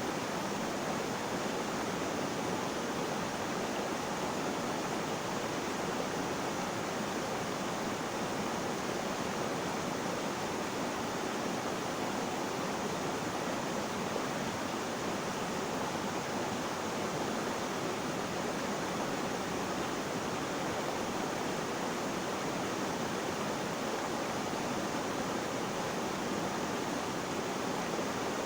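Flowing water making a steady, unbroken rushing noise with no splashes or changes.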